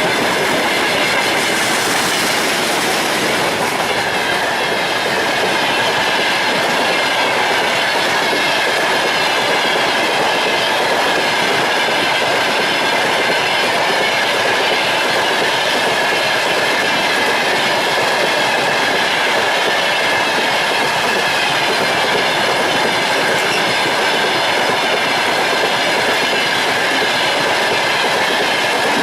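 Freight train rolling steadily past, its wagon wheels clattering over the rails, with a faint steady high ringing along with the noise.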